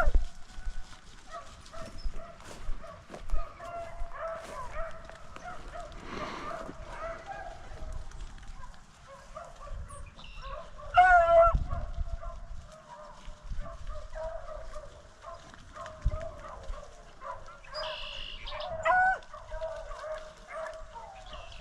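Pack of beagles baying on a rabbit's track: a running chorus of repeated bawls, with a louder bay close by about eleven seconds in and another near the end.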